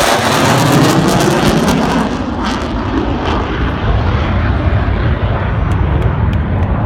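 F-16 fighter jet engine roaring past. The roar falls in pitch as the jet goes by, then settles into a lower, fading rumble with some crackle.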